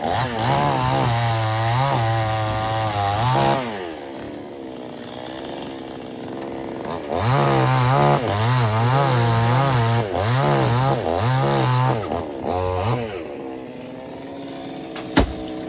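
Two-stroke chainsaw run at high revs in two long spells, its pitch wavering under load, dropping back to a lower idle between. A single sharp knock comes near the end.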